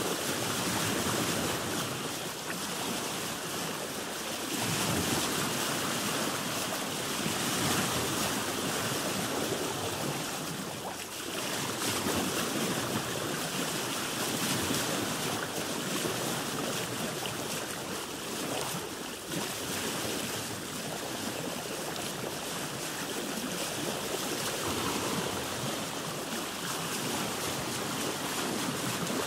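Ocean waves washing around a boat, a steady rushing hiss that swells and eases every few seconds.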